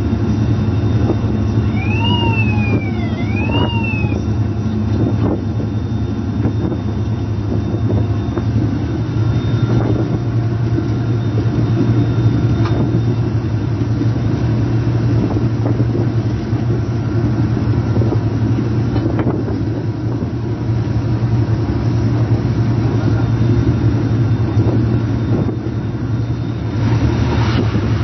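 Diesel locomotive running steadily under way, heard from the cab as a loud, even engine hum, with occasional knocks from the wheels over the rails. Two short rising-and-falling tones sound about two to four seconds in, and a rushing noise swells near the end as the train passes coaches on the next track.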